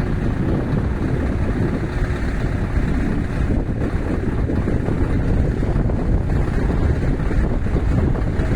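Heavy diesel truck engine running steadily, a continuous low rumble.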